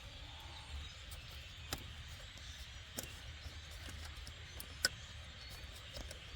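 A few short, sharp clicks, three or four spread over several seconds, as plastic retaining tabs and clips are worked by hand, over a steady low hum.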